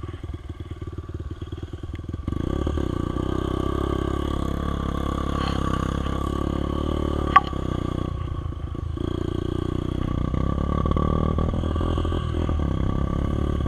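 Dirt bike engine running under a rising and falling throttle, louder from about two seconds in, with one sharp click about halfway through.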